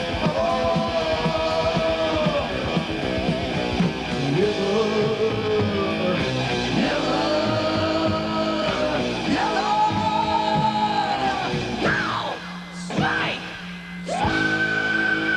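Heavy metal song: a singer holds long, sliding notes over a loud full band. About twelve seconds in the band thins out briefly, then a long high note comes in and is held.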